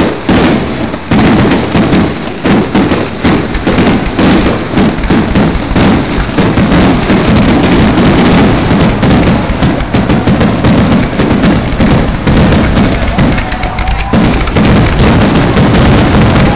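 Aerial fireworks shells bursting in a loud, dense barrage: overlapping bangs and crackle with no pause.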